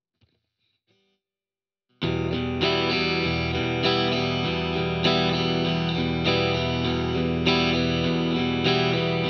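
Near silence with a faint click, then about two seconds in an electric guitar starts strumming chords in a steady rhythm, accenting beats 2 and 4 with a regular louder strum about every second and a bit.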